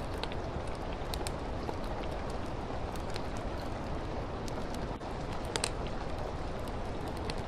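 Steady hiss of rain with a wood fire crackling over it: scattered sharp pops and snaps, one of the louder ones about five and a half seconds in.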